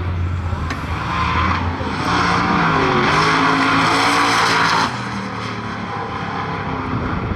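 Drag-racing engine at full throttle going down the street, its pitch rising and falling through gear changes over a loud hiss, which stops abruptly just before five seconds in; a lower engine hum carries on after.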